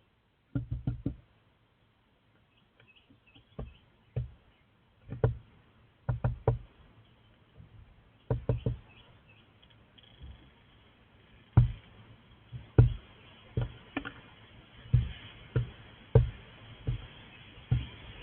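Irregular knocks and bumps against a bird-cam box, single or in quick clusters of two or three, getting louder in the second half.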